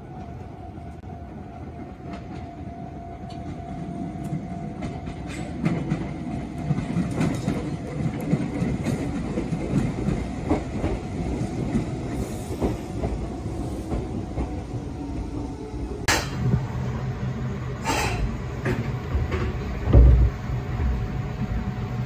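Electric train running into a station over rail joints and points, growing louder, with repeated wheel clicks and a slowly falling motor tone as it slows. Two sharp short noises and then a heavy low thump come near the end.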